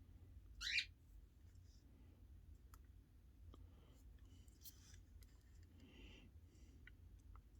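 Near silence with faint clicks and light handling noises of small plastic parts, and one brief, louder high scrape about a second in.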